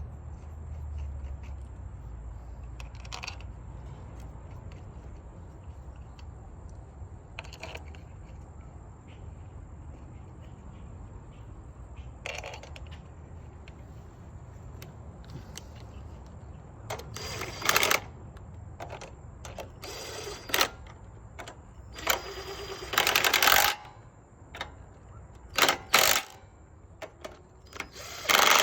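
Metal hand tools and engine parts clinking and rattling against each other over a low steady hum, with a few faint clicks at first and several louder bouts of clattering in the second half.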